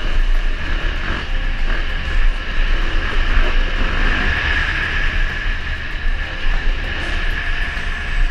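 KTM 690 Enduro's single-cylinder four-stroke engine running while the bike rides along a dirt track, with heavy wind rumble on the helmet-mounted microphone.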